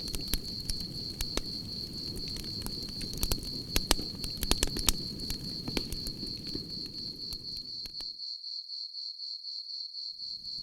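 Campfire crackling and popping over a steady, pulsing cricket chirp, with the pops thickest around the middle. About eight seconds in the fire sound drops out, leaving only the crickets, and it comes back near the end.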